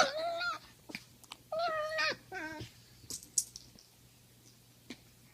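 Poodle giving three short whining yowls in the first few seconds, the last one sliding down in pitch, followed by a few faint clicks.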